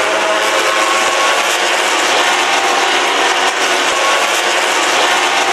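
MotoGP racing motorcycles at high revs, a continuous loud engine noise with several overlapping pitches that shift slightly.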